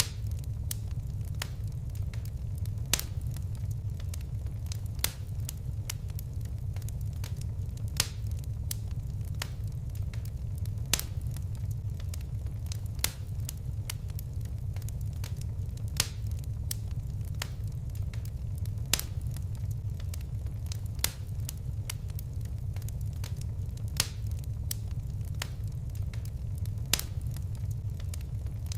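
Fire crackling: sharp pops and snaps every second or two over a steady low rumble of flames.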